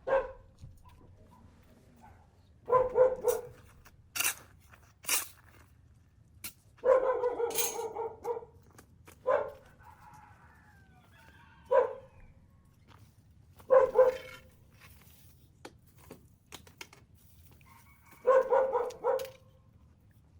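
A dog barking in short bouts every couple of seconds, some bouts two or three barks long, with a few sharp clicks between them.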